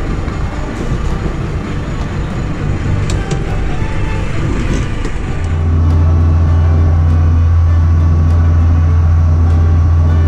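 Fishing boat's engine running. About five seconds in it becomes a loud, steady low drone as the boat steams out to sea.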